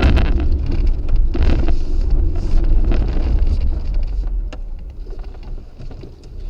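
Vehicle running at speed: a heavy low engine and road rumble with wind buffeting the microphone and a few sharp clicks. It eases off after about four seconds.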